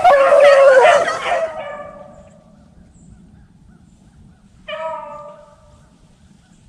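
Beagles baying on a rabbit's track: several dogs give voice together, loud at first and fading out within about two seconds, then a single bay about five seconds in.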